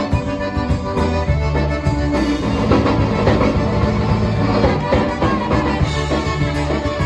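Live polka band playing an instrumental passage, with sustained bass notes under a steady beat.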